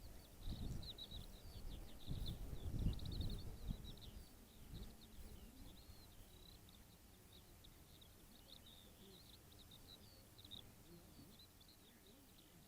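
Faint outdoor ambience: many short, high chirps keep going throughout, with low wind rumble on the microphone during the first few seconds.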